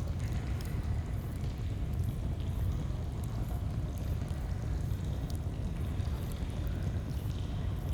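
Steady rush of a flowing stream, heaviest in the low end, with scattered faint crackles of a campfire.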